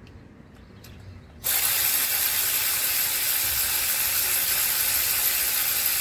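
Hand ratchet wrench being worked rapidly and steadily as a bolt is run in, after a few faint clicks; the fast ratcheting starts abruptly about a second and a half in.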